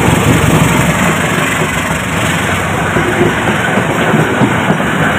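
Diesel locomotive passing close by with its engine running, followed by passenger coaches rolling past, their wheels rumbling on the rails. The deep engine sound eases off after about a second as the coaches take over.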